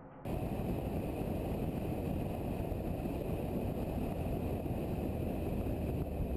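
Steady rumble of a car driving along a road, tyre and wind noise heard from inside the vehicle, starting abruptly just after the beginning.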